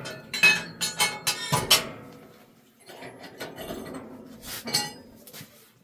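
Sharp metallic clinks and knocks: a quick run of about five in the first two seconds, quieter shuffling after, then two more about four and a half seconds in.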